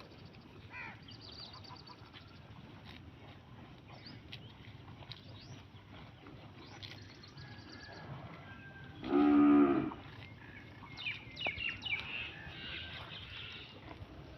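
A cow moos once, a single short call of under a second about nine seconds in, with birds chirping faintly around it.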